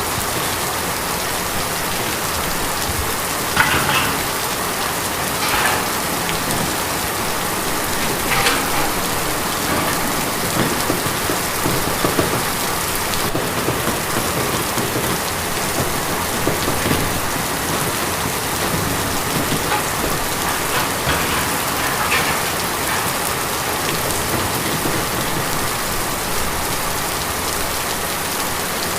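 Steady rain falling on a tin roof, with a few louder single drop hits standing out now and then.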